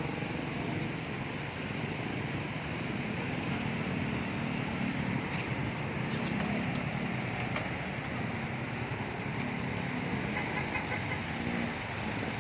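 Steady rumble of road traffic, with vehicle engines running.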